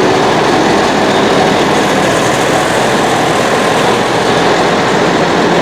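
Tractor engine running steadily under way, a loud unbroken mechanical drone with rattle.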